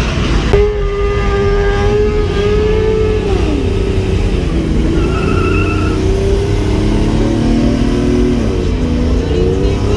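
Several motor vehicle engines running and revving at once at different pitches. One steady engine note drops away about three seconds in, and others rise and fall near the end.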